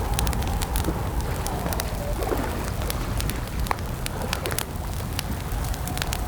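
Campfire crackling, with sharp pops scattered irregularly over a steady low rumble and a faint wavering tone in the background.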